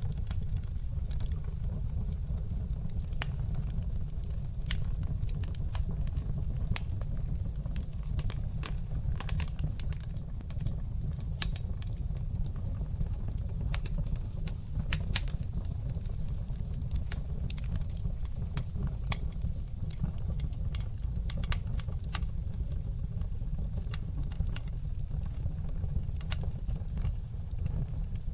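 Wood fire crackling in a fireplace: a steady low rumble of burning with frequent sharp, irregularly spaced crackles and pops.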